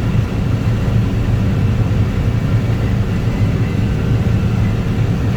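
Combine harvester running while harvesting corn, heard from inside the cab: a steady low rumble with a faint steady hum above it.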